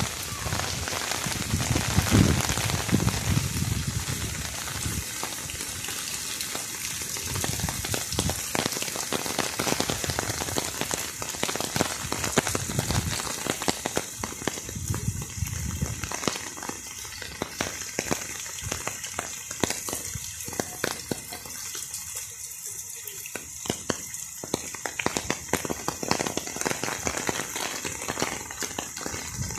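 Steady rain falling: a dense hiss of countless drop ticks. Low rumbles come through near the start and again about fifteen seconds in.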